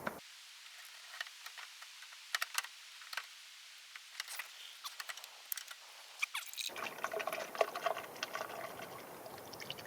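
Leftover engine coolant trickling and dripping out of a car radiator into a catch container as the radiator is lifted out, with scattered light clicks and knocks from handling it.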